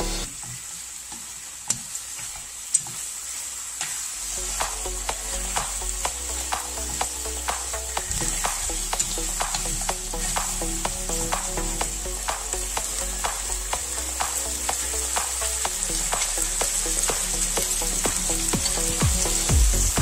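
Beef brisket, bean sprouts and noodles sizzling in a frying pan as they are tossed with tongs. Frequent light clicks of the tongs against the pan run throughout, with two sharper knocks about two seconds in.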